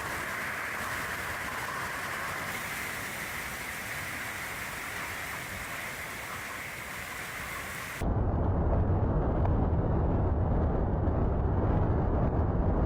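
Steady hiss of heavy rain. About eight seconds in, it cuts abruptly to a louder, deep rumbling noise.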